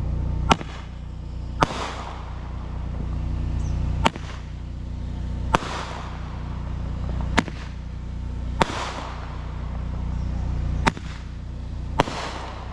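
Handheld firework going off: eight sharp pops at uneven intervals of one to two seconds, several trailed by a brief crackling hiss.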